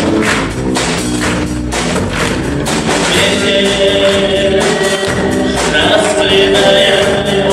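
Live rock band playing: a drum kit keeping a steady beat with cymbal strikes, under bass and electric guitars, with a sustained high melody line coming in about three seconds in.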